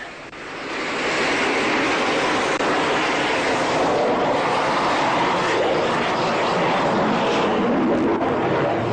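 Engine noise of an aerobatic display aircraft in flight, a dense steady noise that swells in over the first second and then holds.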